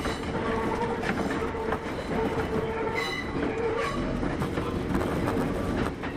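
Kintetsu 8810 series electric train running, a steady hum over the rumble of the wheels, with scattered clacks as the wheels pass over rail joints.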